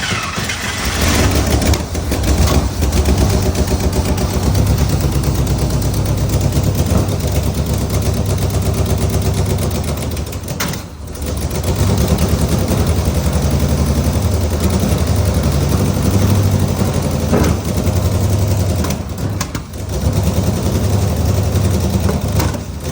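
1967 International Loadstar 1600 truck's gasoline engine fired up and running unevenly, its loud pulsing rumble sagging briefly about eleven seconds in and again near twenty seconds before picking back up. It is running poorly from an ignition timing problem that fresh points, plugs, cap, rotor and wires have not cured.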